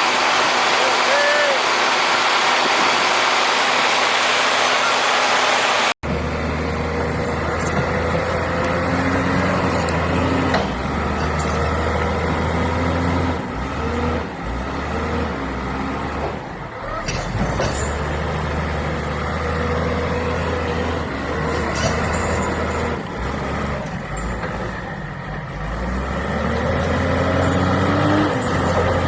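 A steady rushing noise, then a sudden cut about six seconds in to a heavy diesel engine running. Its pitch rises and falls slowly as it revs.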